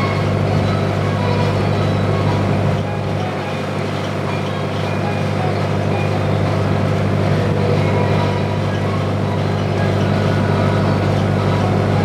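Sightseeing boat's engine running at a steady cruise, a constant low drone with the rush of the hull through the water, heard from inside the cabin.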